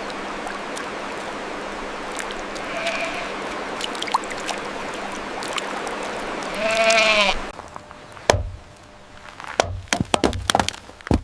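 A bleating animal, faint once about three seconds in, then one loud bleat near seven seconds, over a steady rushing hiss. The hiss cuts off suddenly after the loud bleat, and a few sharp knocks follow near the end.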